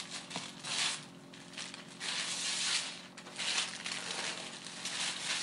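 Paper crinkling and tearing in irregular rustling bursts, the sound of gift wrapping being handled and torn while presents are unwrapped.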